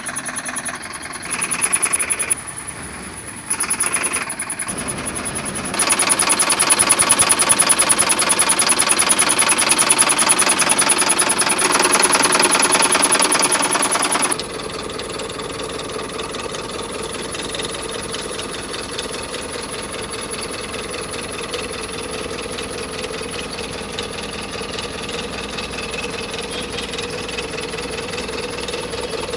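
Diesel engine of a 2011 Tata LPT 1109 truck running with a rapid knocking clatter. It is uneven for the first few seconds, louder and harsher for about eight seconds after that, then settles about halfway through into a steadier, quieter idle.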